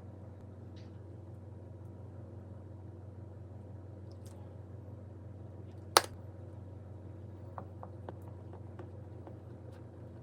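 Steady low electrical hum, with one sharp click about six seconds in and a few light ticks after it, typical of kitchen prep handling.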